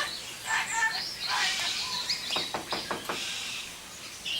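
Birds chirping in short high calls, with a quick run of about five sharp clicks or taps about halfway through.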